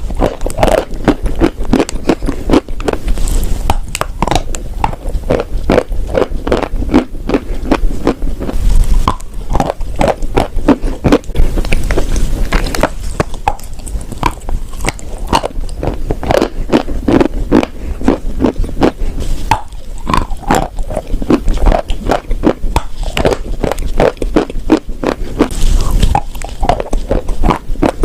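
Chalk and clay being bitten and chewed close to the microphone: a dense, uneven run of crisp crunches and clicks, with louder clusters now and then.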